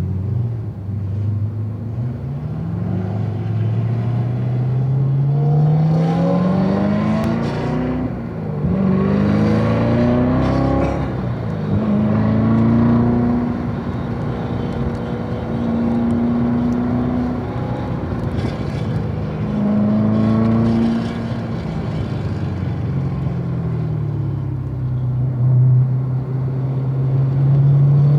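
Chevrolet Corvette C7 Z06's supercharged V8 driven hard on a race track: the engine note climbs steeply through the gears, drops sharply at each shift or lift, and pulls again several times, with stretches of steadier running through corners.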